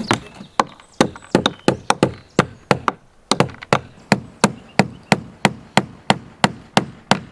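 Hammer striking wood in a steady run of blows, about three a second.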